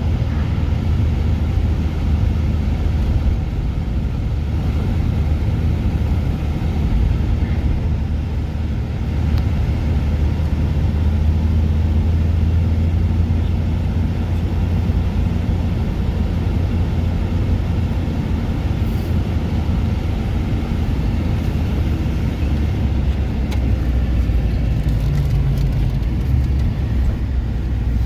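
A car driving at a steady speed: continuous engine drone and road noise.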